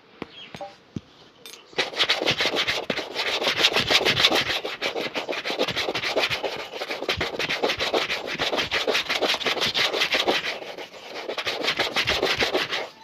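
Shoe being buffed on its leather upper with fast, even back-and-forth rubbing strokes during a shoe shine. The strokes start about two seconds in, ease briefly near the end, pick up again and then stop.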